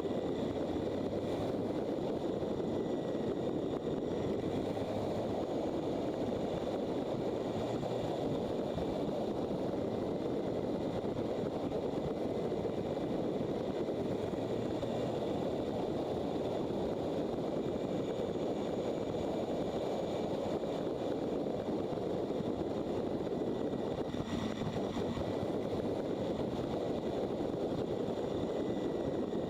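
Motorcycle riding steadily: an even rush of engine and wind noise at the onboard camera, with no change in pace.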